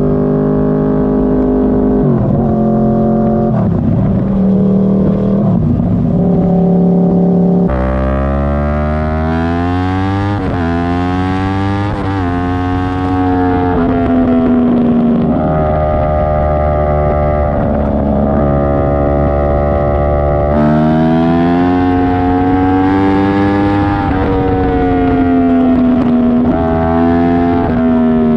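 Yamaha R1 sportbike's inline-four engine running through a GYTR factory exhaust with freshly replaced packing while being ridden. The engine pitch climbs and drops again and again as the throttle opens and closes.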